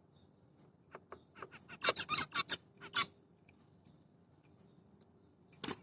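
Zebra finches calling with soft, repeated short chirps. About a second in, one bursts into a two-second run of harsh, buzzy song notes, and a single loud call comes near the end.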